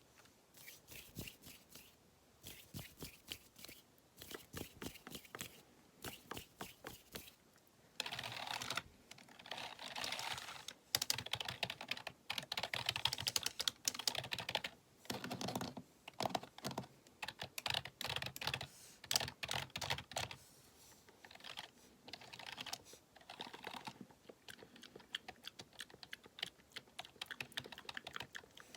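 Typing on a computer keyboard: quick runs of key clicks in bursts. The bursts are short and spaced apart at first, then the typing turns denser and louder from about a quarter of the way in.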